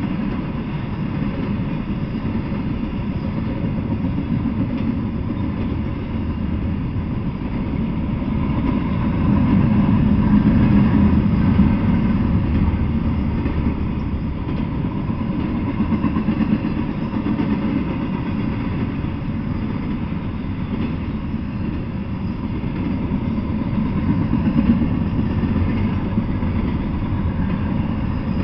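Double-stack intermodal freight train rolling past with a steady rumble of wheels on the rails, swelling louder twice.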